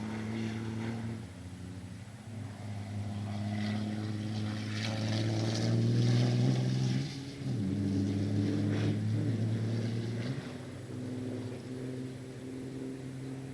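Formula Truck racing trucks' turbodiesel engines running past on the circuit, swelling to their loudest about six seconds in. The engine pitch drops sharply about seven seconds in and again near ten seconds.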